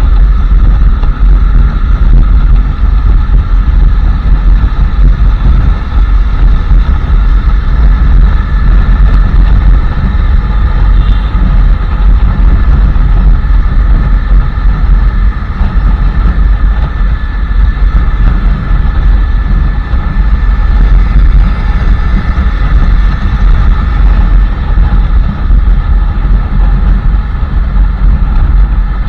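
Royal Enfield Classic 350's single-cylinder engine running steadily under way, heard from the rider's position, a loud, even low rumble with no clear changes in speed.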